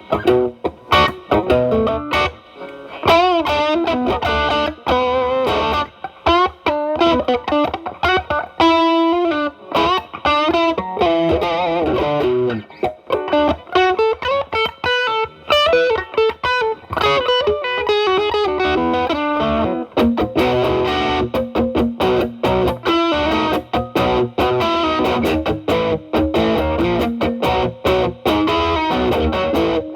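Electric guitar, a Telecaster played through an E.W.S. Brute Drive distortion pedal into a Marshall Valvestate's drive channel, with the drive cleaned up to a lighter crunch. It plays improvised single-note lead lines with bends and vibrato.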